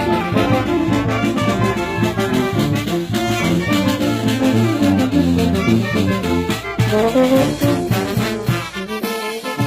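Brass band music playing continuously: held brass notes over a low bass line.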